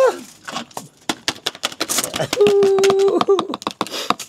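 A person's closed-mouth humming: a short rising-and-falling "mm" at the start, then a held hummed note of about a second near the middle, among many sharp clicks and taps.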